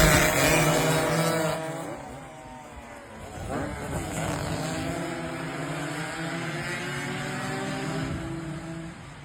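Two-stroke single-cylinder engine of a Suzuki AX100 racing motorcycle at high revs, loud at first and fading over the first two seconds. About three and a half seconds in the revs rise again, then the engine holds a quieter, wavering high-rev note that fades near the end.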